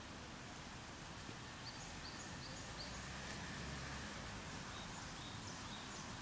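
A small bird calling a quick run of five or so short high notes, about three a second, then a few lower notes near the end, over faint steady background noise.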